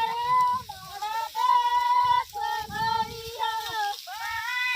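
Women's voices singing a Marwari folk song (bhahiya geet) in a high register, holding long notes with short breaks between phrases.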